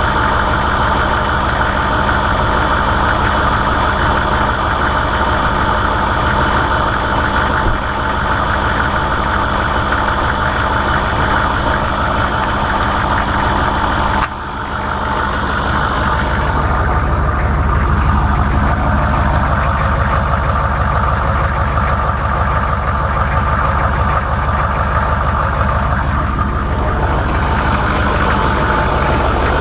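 A 1998 vehicle's engine idling steadily, carrying the odd noise that a shop placed in the bottom part of the engine. About halfway through the sound dips briefly, then runs duller and heavier for several seconds.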